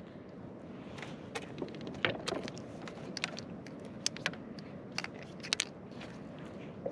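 Scattered light clicks and taps of gear being handled on a kayak, irregular and a dozen or so in all, over a steady hiss.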